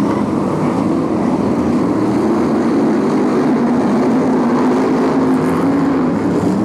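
Several BriSCA F1 stock cars' V8 engines running together on the track, a steady loud drone whose pitch glides up and down as the cars rev and pass.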